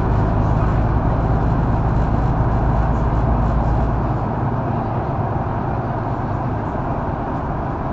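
Mercedes-Benz O530 Citaro facelift intercity bus under way, heard from inside the passenger cabin: steady diesel engine drone with road and tyre noise. About halfway through, the low engine drone drops away and the sound gets a little quieter, as the engine eases off.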